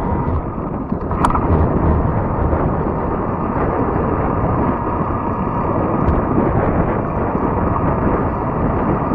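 Steady rushing noise from riding a fat-tire e-bike: wind on the microphone and the tyres rolling along the trail. A short sharp click sounds about a second in.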